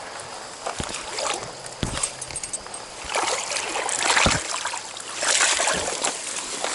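Water splashing and sloshing as someone wades through a shallow stream, in two longer surges in the second half, with a few sharp knocks along the way.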